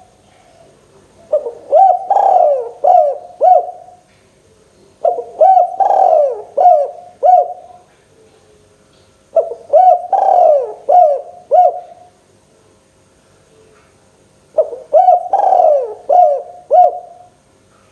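Spotted dove cooing: four phrases of about five quick coos each, one phrase every four to five seconds.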